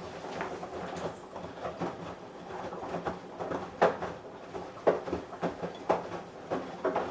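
Samsung Eco Bubble washing machine running a wash, its drum turning and the load tumbling with irregular clunks and knocks. The knocks grow stronger after a few seconds, coming about once a second.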